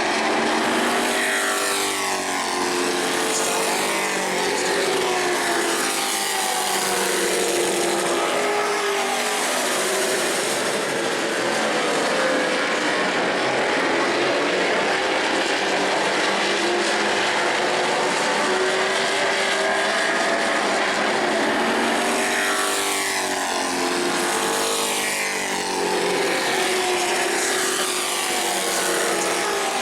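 Race trucks' engines running at speed around a short oval, a steady pack sound with engine pitch rising and falling as trucks pass by several times.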